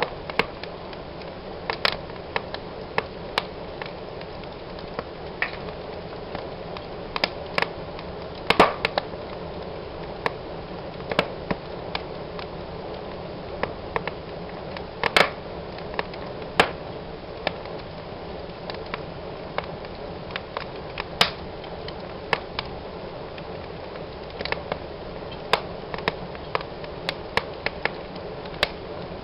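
Wood fire in a fireplace crackling: frequent irregular sharp pops and snaps over a steady low hiss of the burning.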